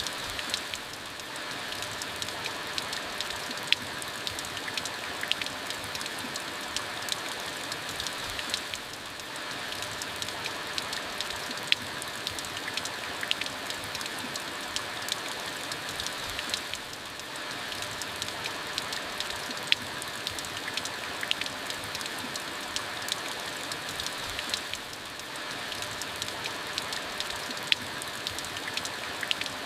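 Steady rain falling, an even hiss with many individual drops ticking sharply on a surface. The level dips briefly about every eight seconds.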